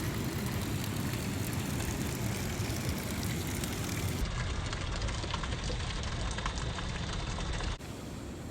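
Wind rumbling on the microphone as a steady low noise, changing abruptly twice.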